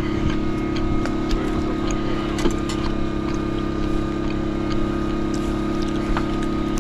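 An engine running steadily at constant speed, with scattered light clicks and knocks over it.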